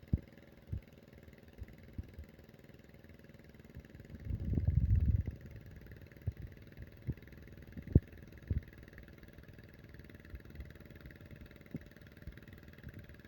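Tractor engine running with a faint steady hum, broken by scattered sharp knocks and a louder low rumble lasting about a second, some four seconds in.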